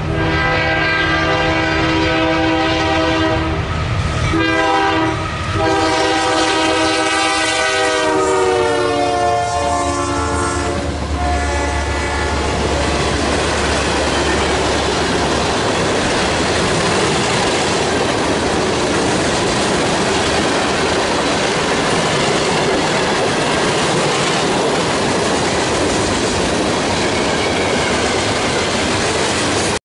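Freight train passing: the lead Union Pacific GE AC4400CW locomotive sounds its chime horn in three blasts, the last long one dropping in pitch as the locomotive goes by. The diesel locomotives' engines pass briefly, then a long string of tank cars rolls past with steady wheel clatter.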